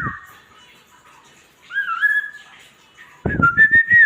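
White-rumped shama (murai batu) singing: two short phrases of clear whistled notes stepping up in pitch, the second, with a low rumble under it, ending in a falling glide.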